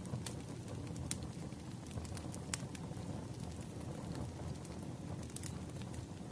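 Wood fire crackling: a steady low rustle with scattered sharp pops at irregular intervals.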